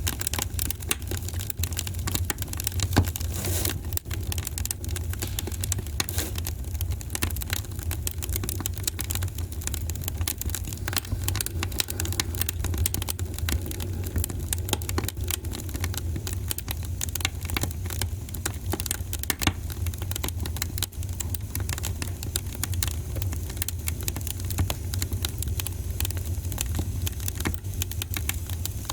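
Wood fire burning in a fireplace, crackling with dense small pops and one sharper pop about three seconds in, over a steady low rumble.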